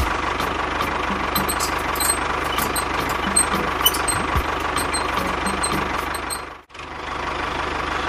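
Tractor engine running steadily with a fast, low knocking beat. It cuts out for a moment about two-thirds of the way through, then carries on.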